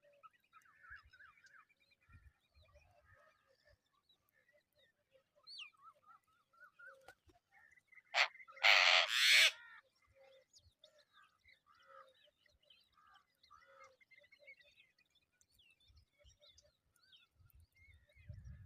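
Mynas calling at the nest: faint scattered chirps and short whistled calls, broken about eight seconds in by a loud, harsh burst of screechy calls lasting under two seconds, as the nestlings beg for food.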